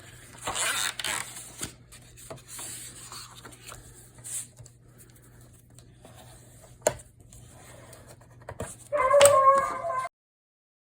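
Paper being handled and scored on a scoring board: rubbing and rustling, with a sharp tap about seven seconds in. Near the end comes a short pitched sound, and then the sound cuts off abruptly.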